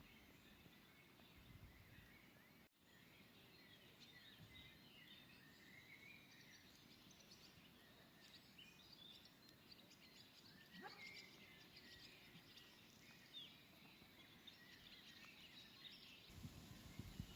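Near silence with faint birds chirping in the distance.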